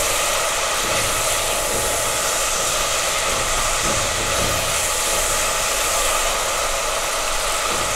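Chicken frying in oil and masala in a metal pot, sizzling steadily as it is stirred with a silicone spatula.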